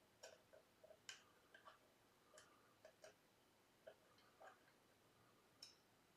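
Faint, irregular small clicks and ticks of metal tools at a guitar bridge, as the saddle height screws are turned down with a small hex key to lower the string action.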